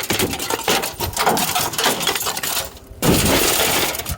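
Glass being broken out of an old truck's window: a dense run of clinking, crunching pieces, with a louder, heavier crunch starting about three seconds in.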